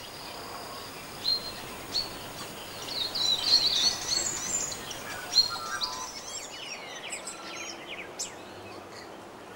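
Birds chirping, a run of short whistled calls over a faint steady hiss, busiest in the middle.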